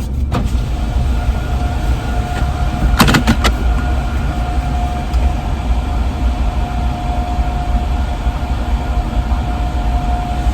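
Idling car heard from inside the cabin with the heater blowing: a steady low rumble, a couple of sharp clicks about three seconds in, and a thin steady whine from about a second and a half on.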